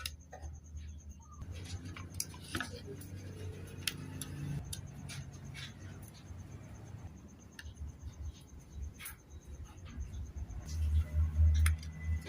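Scattered light clicks and taps of hand tools and small wooden parts being handled during model building, over a steady low hum, with a few heavier low bumps near the end.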